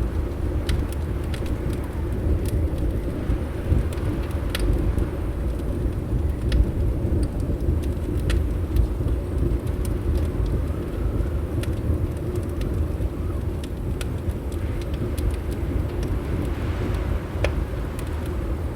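Wood fire crackling, sparse irregular pops and snaps over a steady low rumble of wind.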